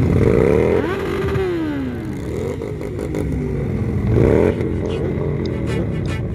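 Several motorcycle engines running and revving together. Their pitch climbs and falls twice, once near the start and again about four seconds in.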